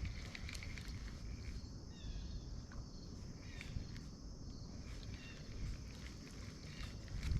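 Steady chorus of crickets or other night insects, a continuous high-pitched trill, with a few short chirps and faint clicks over a low rumble.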